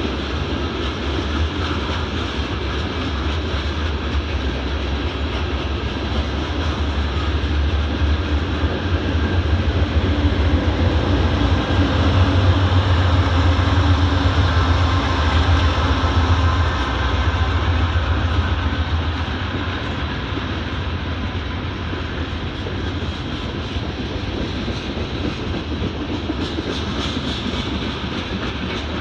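Long Norfolk Southern mixed freight train rolling past: a steady rumble of cars on the rails. About a third of the way in, the mid-train distributed-power diesel locomotives pass, their low engine drone swelling and then fading back to the sound of the cars.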